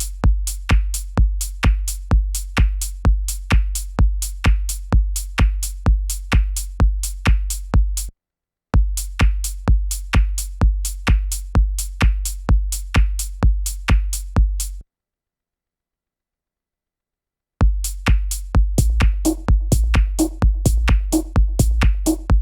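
Electronic techno drum loop played back: a steady kick drum with deep low end at about two beats a second, with hi-hat-like ticks over it. Playback stops briefly about eight seconds in and again for about three seconds in the middle. When it restarts, a pitched synth part with repeating notes joins the beat.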